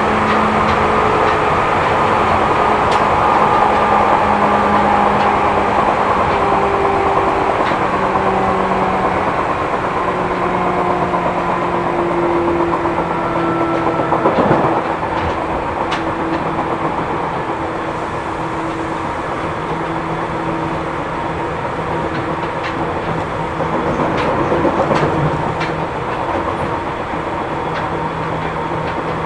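Seibu New 2000 series electric train heard from inside the car while running: wheels on rail with scattered clicks, and motor tones that shift in pitch in steps. A single loud knock about halfway through, after which the running noise drops a little. The uploader notes wheel-flat noise in this recording.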